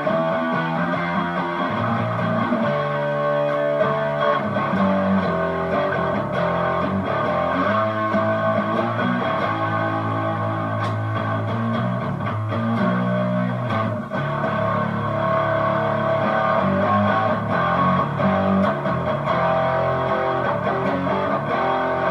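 Electric guitar (a Strat copy) played continuously through a Harley Benton American Sound Fender-style amp-simulator distortion pedal, with its drive and voice knobs all the way up, into a Hotone mini amp head and Vox BC108 cabinet. It is a steady run of distorted notes and riffs.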